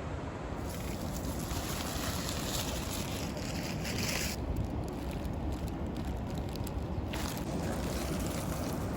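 Wind buffeting the microphone in a steady low rumble, with a bright crackling hiss over it that stops suddenly about four seconds in and comes back about seven seconds in.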